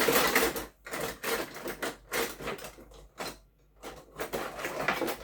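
Kitchen handling noises: irregular clattering and scraping as dishes and utensils are moved about, in several bursts with a brief pause about three and a half seconds in.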